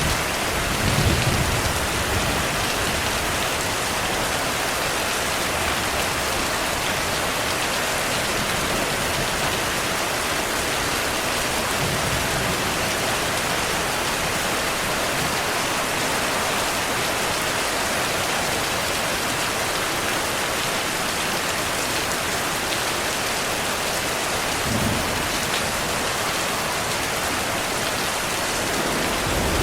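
Heavy rain falling steadily, with brief low rumbles of thunder about a second in and again near the end.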